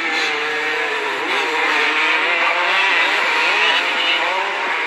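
Several 125cc dirt-bike engines racing on a motocross track, their pitch rising and falling as the riders rev and shift.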